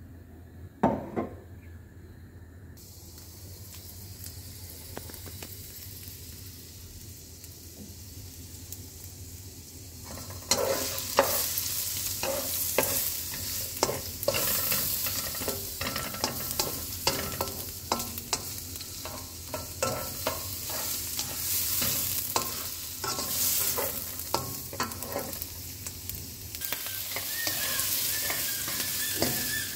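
Diced carrots dropped into hot oil in a nonstick wok, setting off a loud, dense sizzle about a third of the way in, with a slotted spatula scraping and tapping the pan over and over as they are stirred. Before that there is only a faint steady hiss and a single click.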